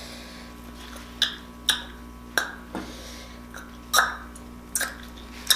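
Handling noise close to the microphone: about six short, separate clicks and crinkles, spread unevenly over a few seconds, over a quiet room hum.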